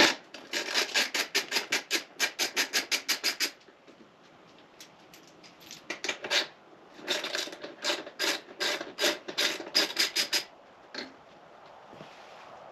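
Hand ratchet clicking in quick runs of about six clicks a second as exhaust mounting bolts on a dirt bike are worked loose, with a pause of a couple of seconds between two runs.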